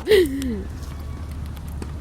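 A voice exclaiming once with a falling pitch, then a steady low hum under faint background noise with a few small clicks.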